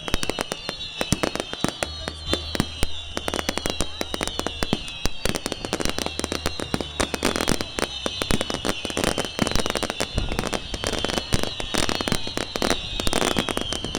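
Fireworks and firecrackers going off in a dense, irregular stream of sharp cracks and bangs, over a continuous wavering high whistle.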